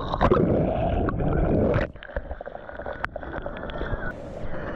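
Water splashing and sloshing around a whitewater kayak and paddle, loud for about two seconds, then dropping suddenly to quieter water noise with a few sharp knocks.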